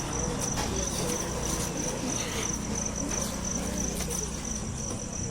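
An insect chirping steadily in a high, evenly pulsed trill, over a low background hum.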